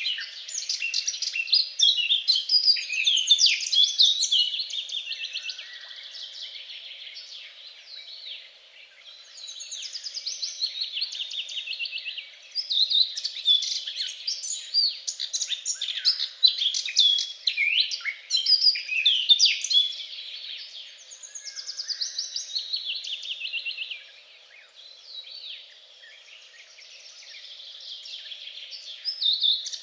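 Songbirds singing in overlapping, rapid warbles and trills, in loud stretches with quieter spells between them.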